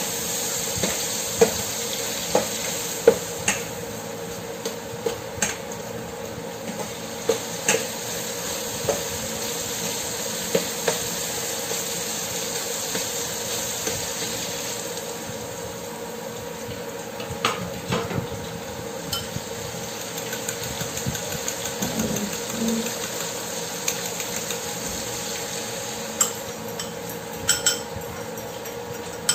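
Diced tomatoes and onions sizzling in hot oil in a stainless steel pan while a metal slotted spatula stirs them, scraping and tapping against the pan in frequent sharp clicks. A quick run of clinks comes near the end.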